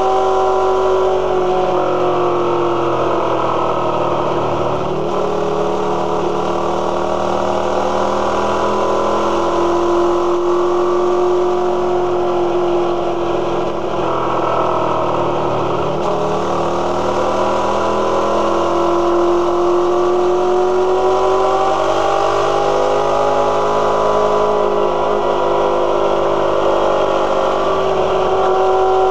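Motorcycle engine running at road speed, its pitch dropping and climbing again several times as the rider eases off and accelerates through the curves.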